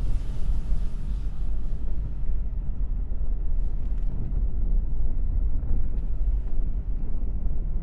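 Four-stroke engine with a transparent cylinder head running: a steady low rumble without a clear beat.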